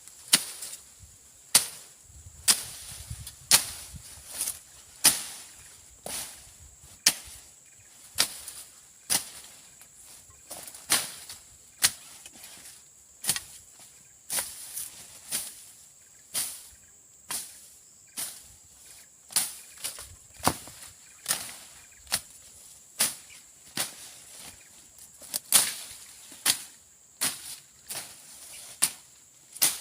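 Machete slashing through brush and undergrowth: sharp chopping strokes, about one a second, in a steady working rhythm.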